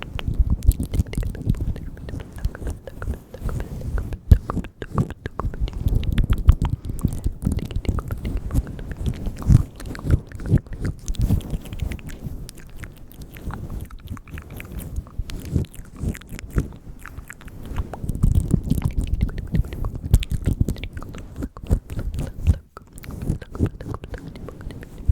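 Close-miked ASMR mouth sounds: a dense, irregular run of wet clicks and smacks.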